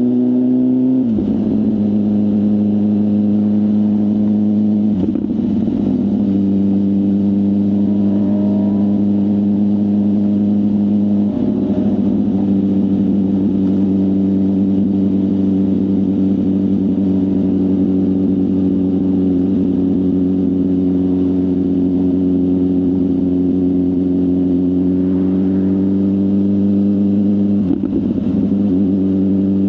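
BMW S1000RR inline-four engine through a full aftermarket exhaust, running at steady, near-constant revs under way. The note is broken four times by short rough spots where the pitch steps to a new level.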